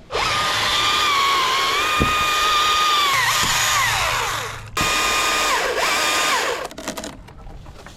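Chainsaw run in two bursts: a high motor whine that comes in at full speed and drops in pitch as the chain bites into wood, stops briefly about halfway through, then starts again and bogs down once more before cutting off.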